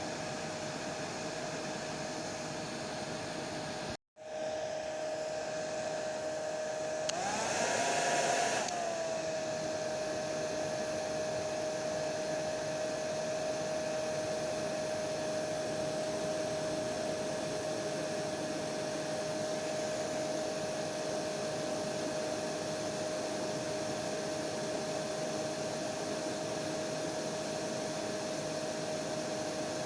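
Hair dryer running steadily, a rushing blow with a constant whine. About four seconds in it cuts out for an instant and comes straight back. A few seconds later it swells louder while the whine rises briefly, then settles back to the steady pitch.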